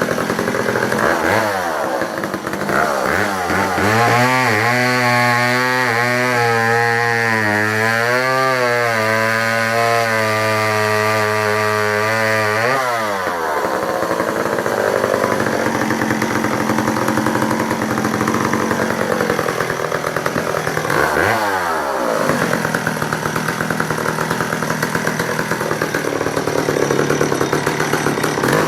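A Danarm 55 Mark 3 54 cc two-stroke chainsaw revs up and runs at high revs for several seconds. About thirteen seconds in the pitch drops and the sound turns rougher and noisier, as the freshly sharpened chain cuts wood under load. Near twenty-one seconds in it briefly revs up and falls back.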